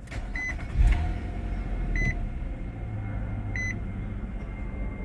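A 2020 Nissan Maxima SV's 3.5-litre V6 starting from the push button: a brief surge about a second in that settles into a steady idle. A dashboard chime beeps about every second and a half over it.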